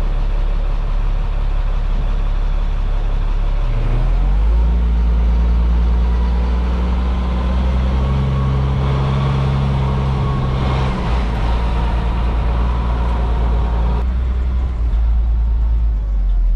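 Tow truck's engine running while driving, a steady low drone whose pitch steps up about four seconds in and shifts again near the end.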